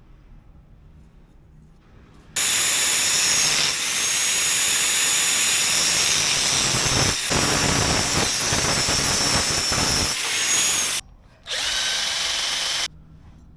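A handheld power tool running at high speed with a steady high whine for about eight seconds, stopping briefly, then running again for just over a second.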